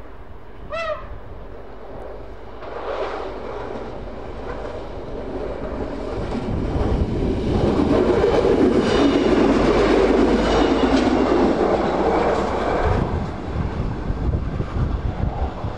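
A local passenger train passing over the level crossing. Its rumble and wheel clatter build from about three seconds in, are loudest in the middle with a thin ringing from the wheels on the rails, then ease off. A brief tone that falls in pitch comes shortly after the start.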